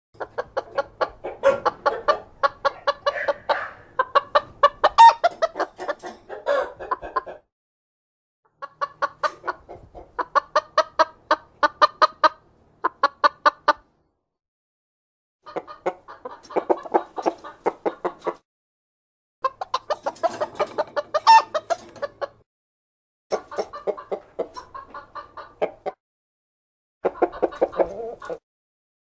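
Chicken clucking in fast runs of short clucks, several bouts separated by brief pauses.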